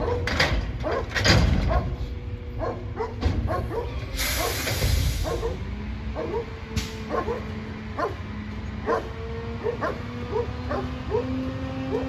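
A dog barking repeatedly in short yaps, about two a second, over the steady running hum of a garbage truck. A loud burst of hissing air comes about four seconds in and lasts a second or so.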